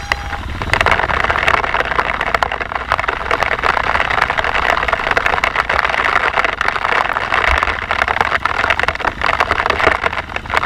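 Dirt bike running along a trail, heard as a loud, steady rushing noise with many small crackles on the microphone.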